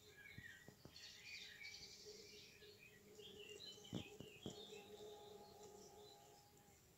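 Near silence with faint birds chirping in the background and a few soft clicks.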